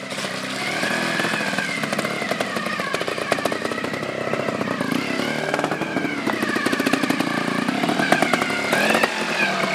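Trials motorcycle engine revving up and down repeatedly as the bike is ridden, picking up about half a second in.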